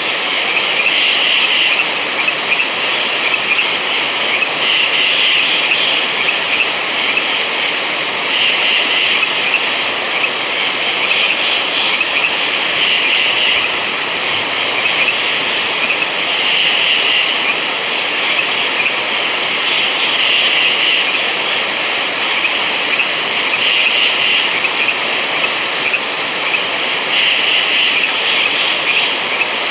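Frogs calling at night in a dense, steady chorus, with a louder, higher burst of calls every three to four seconds.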